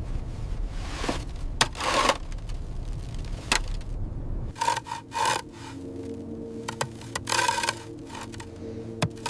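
Snow being cut and scraped in irregular rough strokes while a snow shelter is built. A low wind rumble underlies the first half and stops abruptly about four and a half seconds in.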